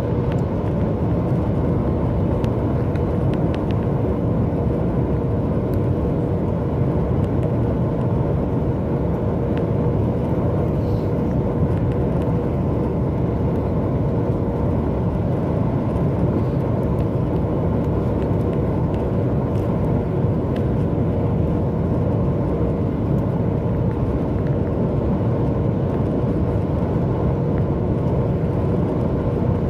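Steady in-flight cabin noise of a Boeing 737 MAX 8: the low rumble of engines and airflow, with a faint steady hum.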